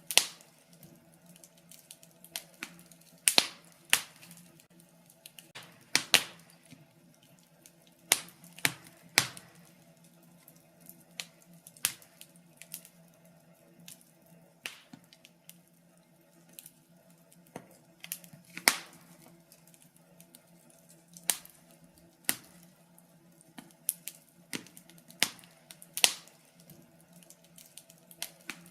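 Wood fire crackling in a fireplace: irregular sharp pops and snaps, some much louder than others, one to three every second or two.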